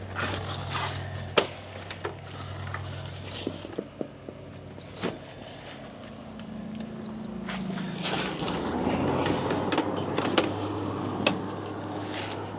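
Air conditioner unit running with a steady low hum, just switched on, with clunks and knocks as the unit and the tent panel are handled. About eight seconds in, a louder rushing noise builds up.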